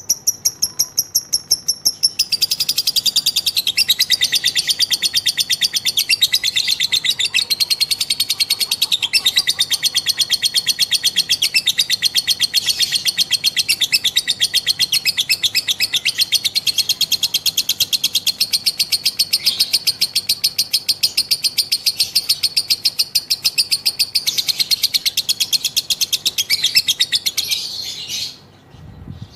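Female lovebird in a long ngekek: a fast, unbroken chattering trill of rapid, shrill repeated notes that stops abruptly near the end.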